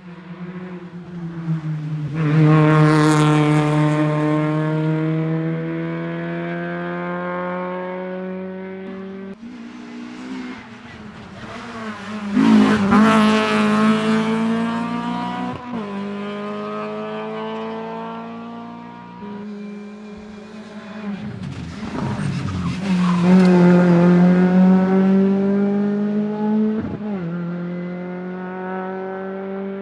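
Rally cars driving a special stage at high revs, one after another: three passes that each swell to a loud peak and then ease off, with abrupt changes between them.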